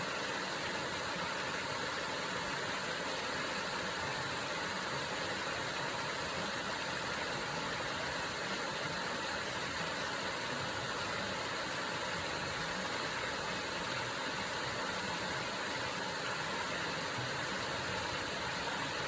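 Gojō Falls waterfall: a steady, even rush of falling water with no changes.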